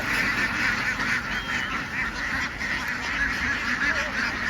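A large flock of domestic ducks calling all at once: a dense, unbroken din of many overlapping calls, with a few single calls standing out above it.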